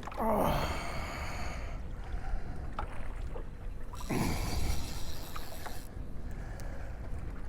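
A small fishing boat on open water: a steady low rumble of hull, water and wind, with two falling sweeps in pitch, one just after the start and one about four seconds in.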